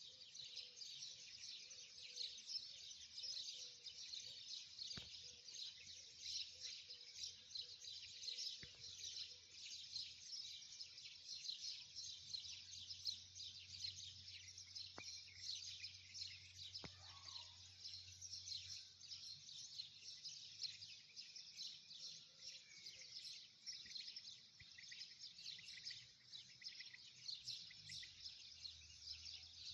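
Many birds chirping continuously in a dense chorus of rapid, high calls.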